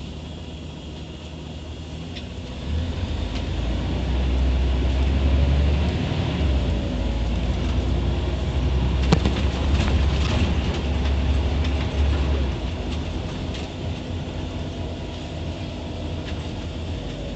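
Scania OmniCity city bus engine and drivetrain pulling away: the low drone grows louder about three seconds in, holds under load for several seconds, then eases off near the end, with one sharp knock just after nine seconds.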